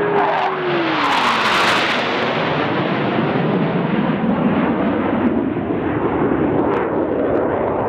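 Two Blue Angels F/A-18 Hornet jets passing low overhead together, a loud jet roar throughout. In the first second and a half a tone drops in pitch as they go by.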